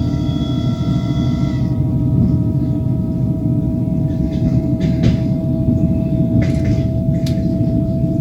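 Train running on the rails, heard from inside the carriage: a steady low rumble of wheels on track. Over it runs a metallic ringing tone, strongest with extra higher tones in the first second or so, and a few sharp clicks come in the second half.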